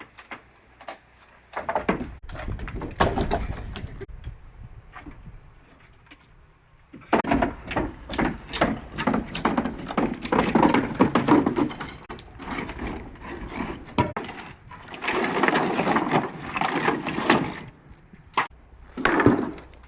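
Wooden stair boards being struck, cracked and clattered in several bursts of rapid impacts, with short quieter gaps between them.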